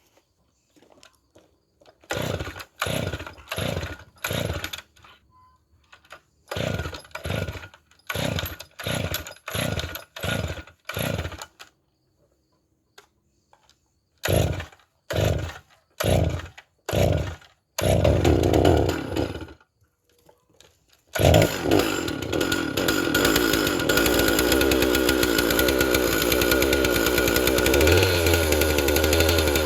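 Stihl 046 two-stroke chainsaw being pull-started after an engine rebuild: three runs of quick recoil-rope pulls with pauses between, then a longer burst as it briefly fires. About two thirds of the way through it catches and keeps running steadily.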